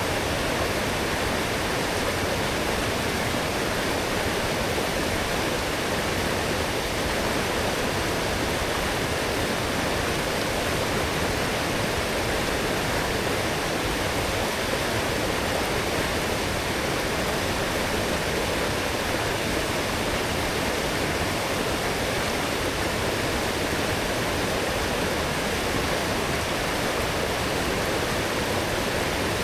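Fast-flowing forest stream, swollen after heavy rain, rushing steadily over its bed.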